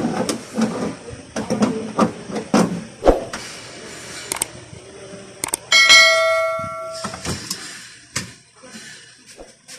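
Metal knocks and clanks as the steel parts of a hydraulic body jack are fitted inside a car door, with one sharp metallic strike about six seconds in that rings clearly for over a second.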